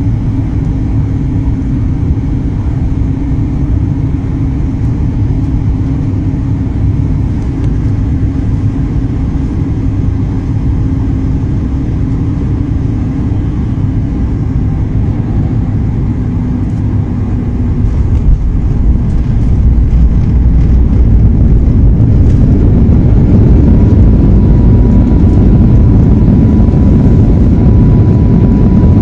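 Ryanair airliner landing: a steady low rumble of engines and airflow that grows louder about two-thirds of the way through and stays loud, with a steady whine joining near the end.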